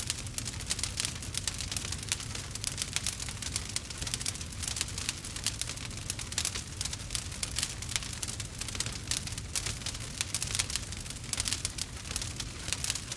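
Log fire crackling: a steady, dense run of small pops and snaps over a low rumble.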